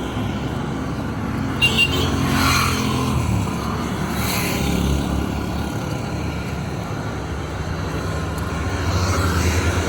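Street traffic, with motor vehicles running and passing close by. About a second and a half in there are two short, high beeps.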